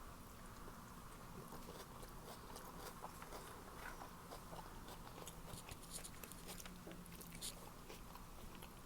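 Faint chewing and scattered small mouth clicks of someone eating a toasted sub sandwich.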